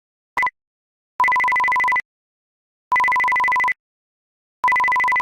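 Telephone ringing tone: a short blip, then three evenly spaced electronic beeps of steady pitch, each lasting under a second, as a call goes through.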